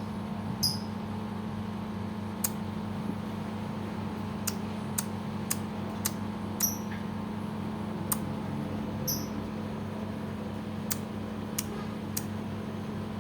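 Lovebird making its 'ngetik' (typing) call: short, sharp clicking ticks, about a dozen spaced irregularly, a few ending in a brief high chirp. A steady low hum runs underneath.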